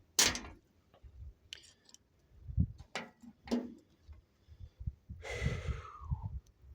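Handling noise as a metal canteen cup and canteen are fitted into their fabric pouch: a sharp click at the start, scattered knocks and soft thuds, and a longer rustle about five seconds in.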